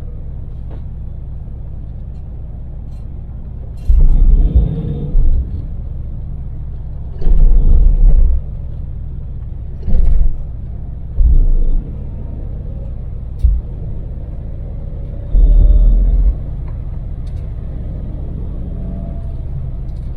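Daewoo Damas mini van's LPG-fuelled engine and road noise at expressway speed: a steady low drone, broken several times by louder low rumbles that each last about a second.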